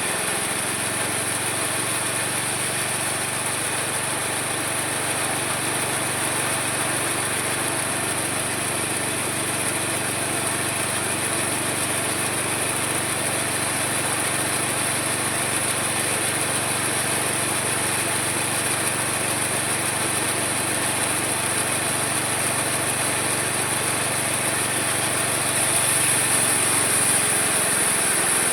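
Homemade mini sawmill running steadily, a constant low hum under a high whine, growing slightly louder near the end.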